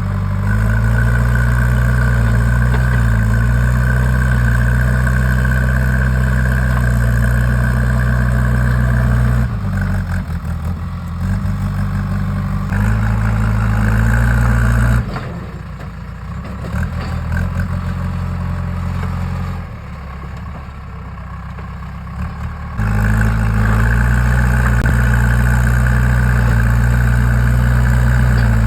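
Diesel engine of a JCB 3DX backhoe loader running at working speed with a steady hum and a thin whine above it. It drops quieter for several seconds about halfway through, then comes back up to full level.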